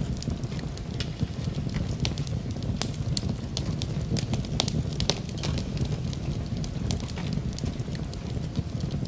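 Wood fire crackling in a fireplace: frequent sharp, irregular pops and snaps over a steady low rumble of burning.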